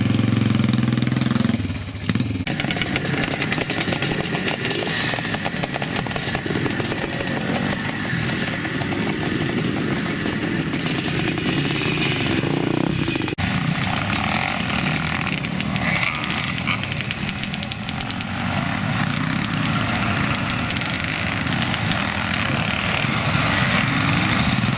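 Classic and EVO-era motocross motorcycles running on a dirt track, several engines revving and changing pitch as they pass. One bike's engine is loudest in the first two seconds, then a dense mix of bikes carries on; the sound changes abruptly about halfway through.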